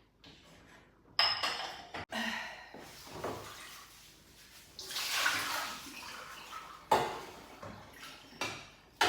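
Kitchen dishes and utensils knocking and clattering, with a short burst of running water from the tap about halfway through.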